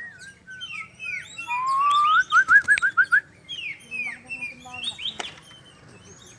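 White-rumped shama singing: many short sweeping chirps, with a loud rising whistle about one and a half seconds in that breaks into a quick run of repeated notes.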